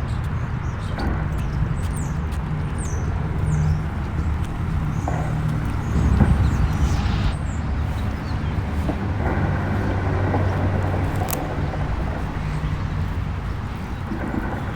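An engine running steadily with a low hum, outdoors, with a few short bird chirps in the first few seconds.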